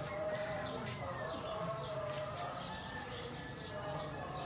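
Small birds chirping repeatedly, short high calls about twice a second.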